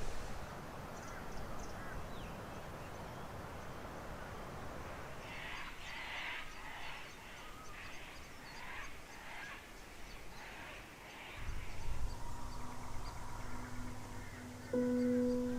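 A bird calling in a series of about ten calls, roughly two a second, for several seconds in the middle over faint outdoor background. Near the end soft music with long held notes fades in.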